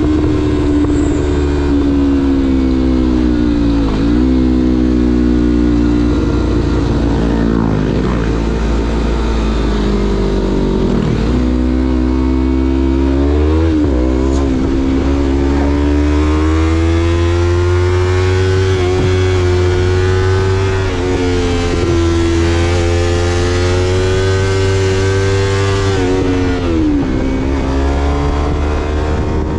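2016 Yamaha MT-25's parallel-twin engine running through a Shadux Viper Pro Race aftermarket exhaust while riding. The pitch rises and falls with the throttle, with a few brief dips where the revs drop and pick up again.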